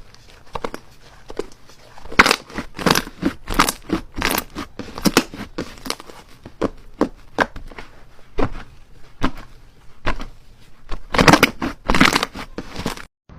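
Slime being squeezed and pressed by hand, giving a run of short crackling pops, about one or two a second. The sound cuts off abruptly near the end.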